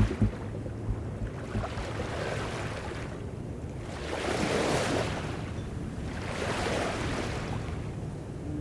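Sea water washing and splashing, swelling and fading about every two to three seconds, with wind on the microphone and a low steady hum underneath.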